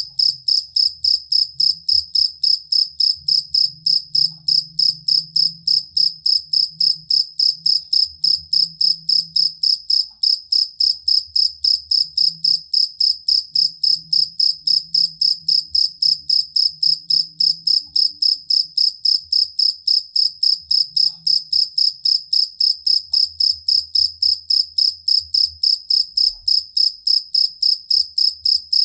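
Field cricket (jangkrik kalung) chirping steadily and continuously: a high, even chirp repeated about three to four times a second.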